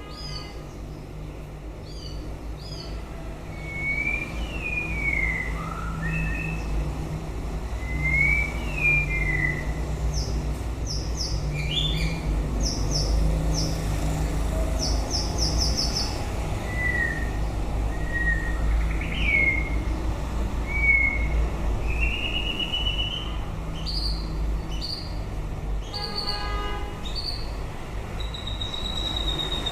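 White-rumped shama singing a varied series of clear whistled phrases, some gliding up or down and some quick runs of high notes, over a steady low rumble.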